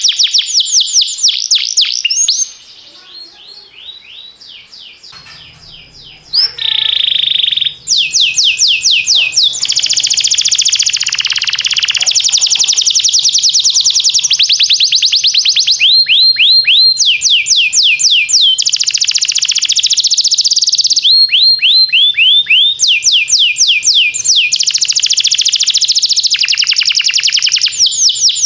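Domestic canary singing: long rolling trills of rapid, repeated high notes, sometimes slowing into separate chirps, with a brief quieter lull a few seconds in.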